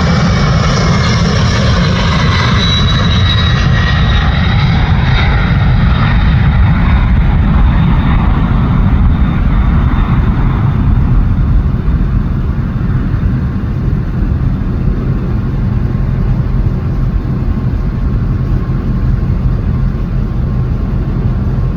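Large jet airliner's engines, a loud rumble with a high whine that fades over the first several seconds, leaving a steady deep roar.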